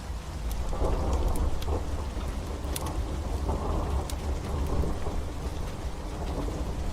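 Steady rain with a low rumble of thunder that swells about a second in and rolls on. Scattered sharp crackles of a wood fire sound over it.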